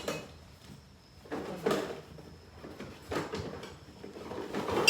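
Rummaging for a set of spade bits: four separate bursts of clattering and scraping as a drawer or case and the tools in it are handled, the loudest near the end.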